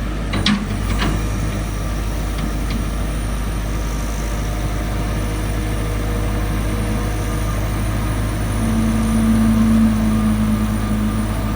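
Caterpillar TL1055 telehandler's diesel engine idling steadily. A couple of sharp clicks sound in the first second, and a steady higher hum joins in near the end.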